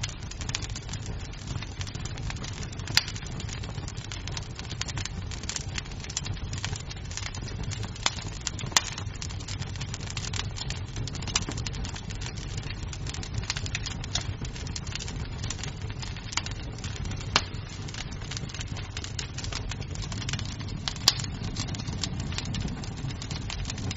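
Wood fire in a fireplace crackling: dense small snaps over a steady low rumble, with about five louder sharp pops of the wood spread through.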